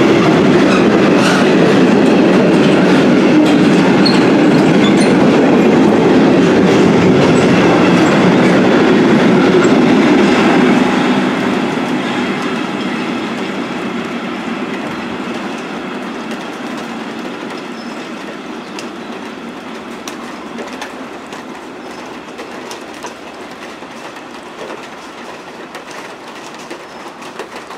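Covered freight wagons rumbling and clattering over the rail joints as they pass close by, loud until the last wagon goes by about eleven seconds in, then fading steadily as the train draws away.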